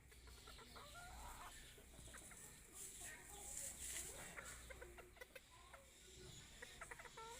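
Chickens clucking softly, a scattered string of short, faint calls.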